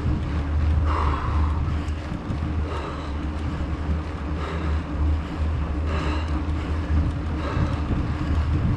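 Mountain bike climbing a trail, heard as a steady low rumble of wind and ride noise on the camera, with soft swishes recurring about every second and a half.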